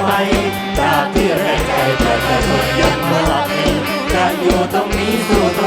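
Live mor lam band music with a steady fast drum beat and bass, a bending melodic line over it.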